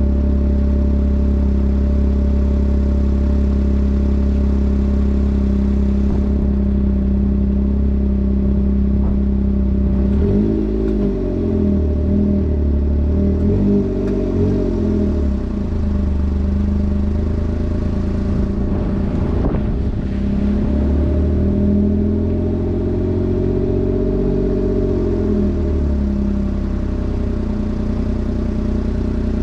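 Kei truck's small three-cylinder engine idling through an aftermarket muffler, with a few quick throttle blips about a third of the way in and a longer rev that rises and falls about two-thirds in, settling back to idle.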